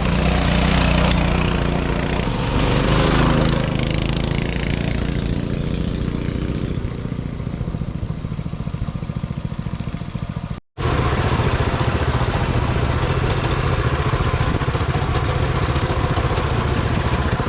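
Coleman mini bike's single-cylinder Predator 224 engine running while riding, revving up and down in the first few seconds. The sound cuts out for a moment about ten and a half seconds in, then the engine runs steadily.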